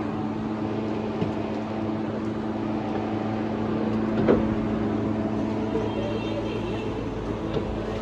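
A steady mechanical hum, like a motor running at constant speed, with one sharp metal clank about four seconds in.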